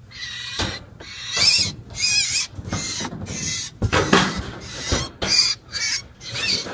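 Starling chick calling: a string of short, harsh, raspy squawks, roughly one or two a second.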